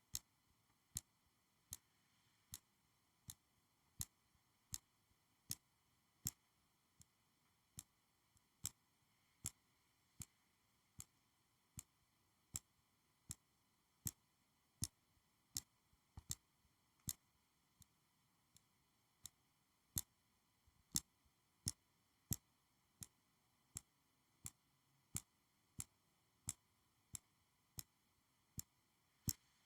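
Crisp single clicks from a school-supply item, evenly paced at a little more than one a second, with varying loudness over a very quiet background.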